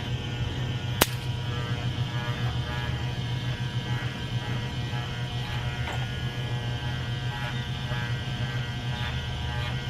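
Electric pet hair clippers running with a steady buzzing hum while shaving a small dog, with one sharp click about a second in.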